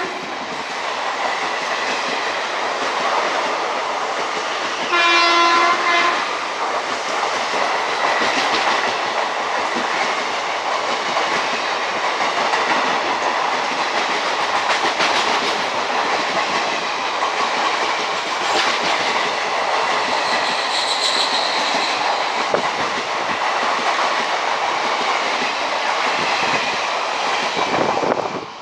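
Express train hauled by a WAP4 electric locomotive passing through a station at speed. Its horn blows once for about a second, about five seconds in, then the coaches' wheels clatter steadily over the rail joints until the noise drops away suddenly at the end.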